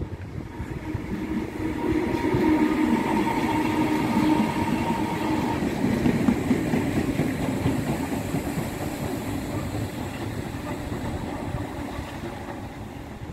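An electric multiple-unit passenger train passing close by on the tracks, its wheels clattering over the rails with a steady whine over the rumble. It is loudest a few seconds in, then fades as the train draws away.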